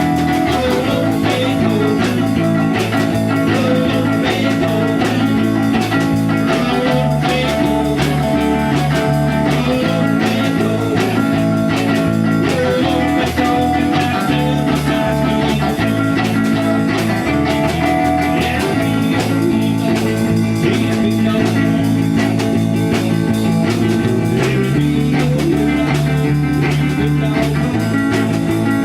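A rock band playing an instrumental passage: guitar over a bass line that steps between notes every few seconds and a steady drum beat, with no singing.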